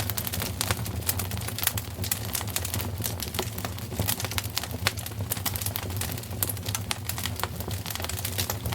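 Wood fire crackling in a fireplace: quick, irregular snaps and pops over a steady low rumble.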